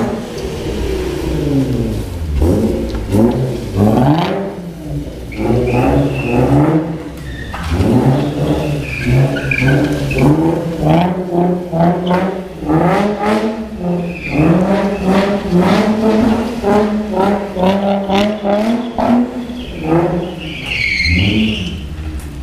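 Infiniti G35's V6 engine being revved over and over, the pitch climbing and dropping with each blip of the throttle and holding steady for a few seconds in the middle. A brief high squeal comes near the end.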